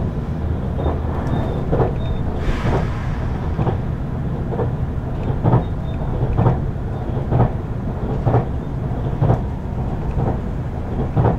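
Running noise heard inside a JR Central HC85 series hybrid diesel railcar at speed: a steady low rumble, with the wheels clicking over rail joints about once a second.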